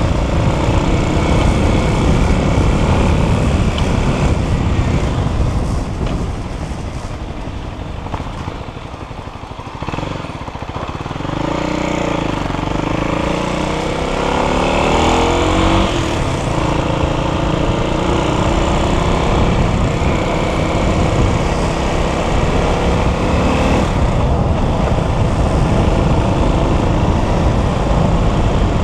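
Dirt bike engine running on a ride, mixed with heavy wind noise. The engine drops back about a third of the way in, then picks up again with its pitch rising and falling before settling into a steady run.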